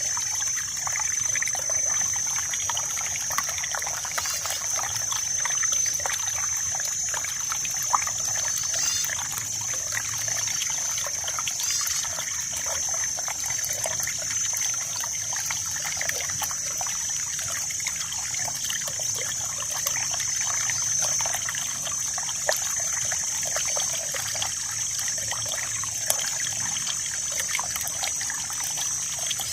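Water flowing and trickling steadily, a dense run of small splashes and gurgles, with a steady high-pitched hiss above it.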